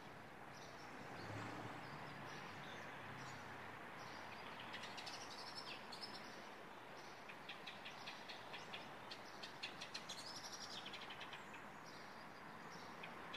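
Small birds chirping and calling, with short calls repeated throughout and quicker runs of chirps in the second half, over a faint steady background noise.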